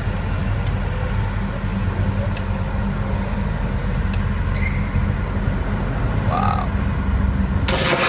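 Steady low engine drone with faint voices, then a loud rushing noise near the end.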